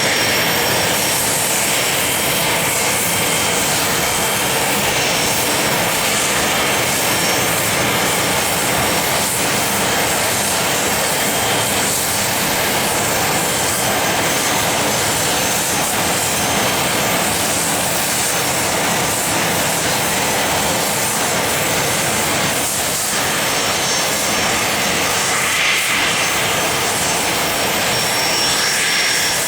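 Business jet engines running, a steady loud rush of noise with a faint thin high whine over it.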